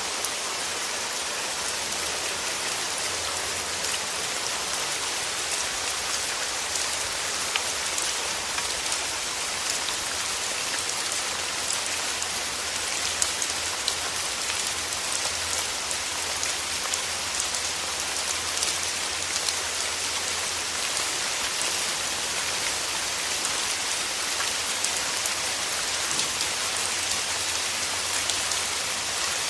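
Steady rain falling, with many small raindrop ticks over an even hiss.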